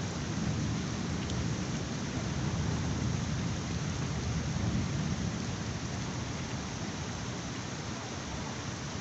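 Heavy rain falling steadily, with a low rumble of thunder that rolls through the first half and eases off toward the end.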